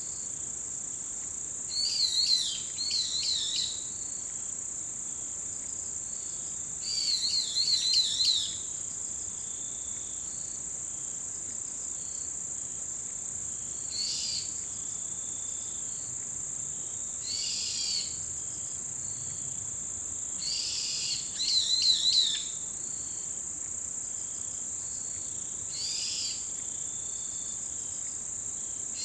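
Autumn insects keep up a steady high-pitched trill. Over it, birds call in short bouts of quick, wavering repeated notes, loudest about two seconds in, around seven to eight seconds, and near twenty-two seconds.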